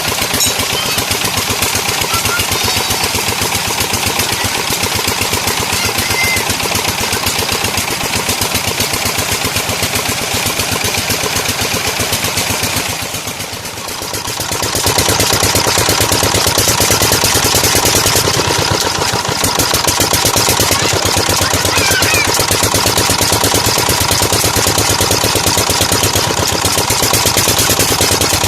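Tube well's diesel pump engine running with a rapid, even knocking beat. The sound dips briefly about halfway through, then returns a little louder.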